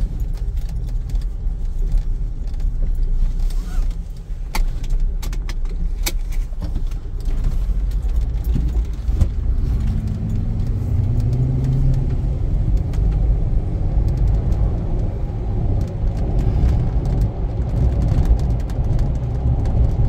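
Low, steady rumble of a car's engine and road noise inside the cabin while driving, with a few sharp clicks and rattles about four to seven seconds in, and a slight rise in engine pitch around the middle.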